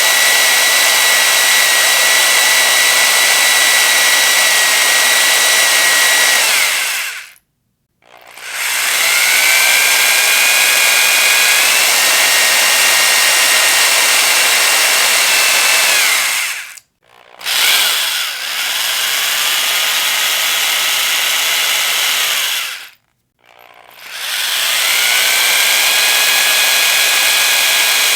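Electric power drill running in long bursts: each run spins up with a rising whine, holds a steady high motor whine, then winds down and stops. It runs in several bursts with three short pauses between them, including a brief blip and one slower, quieter run in the middle.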